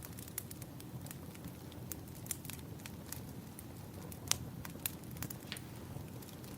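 Wood fire crackling: irregular sharp pops and snaps from burning firewood over a low steady rumble, with a louder pop a little past four seconds in.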